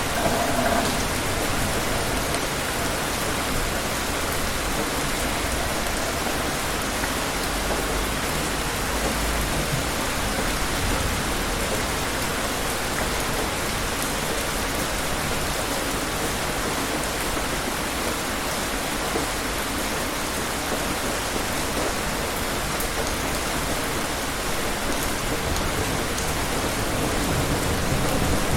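Steady, heavy rain falling in an even hiss of drops on hard surfaces. A low rumble of distant thunder swells in near the end.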